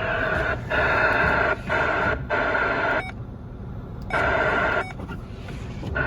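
CB radio in a truck cab giving noisy, crackling transmissions that cut off sharply and come back several times, with a quieter gap about halfway through.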